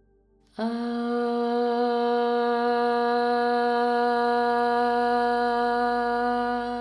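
A single voice chanting one long, steady 'ah' tone, starting about half a second in and held at one pitch until just past the end: one of three closing 'ah' sounds in a sound-healing practice.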